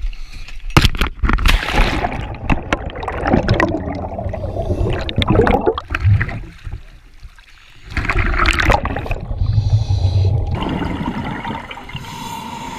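Seawater gurgling and splashing in irregular surges around a scuba diver going into the sea, with a lull about halfway through.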